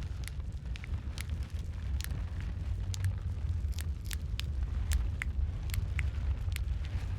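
Wood fire crackling: sharp pops about twice a second over a low, steady rumble of the flames.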